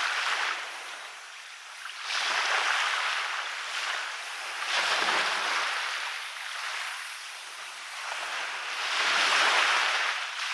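Small waves breaking and washing up a beach, each one a hissing surge that swells and fades every two to four seconds; the strongest comes near the end.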